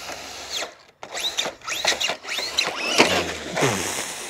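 Brushless electric motors of Traxxas RC cars whining up and down in pitch, again and again, as the cars accelerate and slow under throttle. The sound drops out briefly about a second in.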